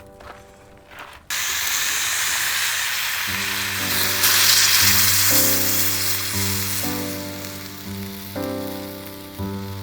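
A steady sizzling hiss starts abruptly about a second in, grows brightest midway and slowly fades, over background music with slow, plucked-sounding notes.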